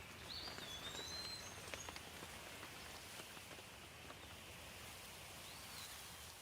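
Light rain falling outdoors as a faint, steady hiss with scattered drips, while a bird gives short high chirps about half a second in and again near the end.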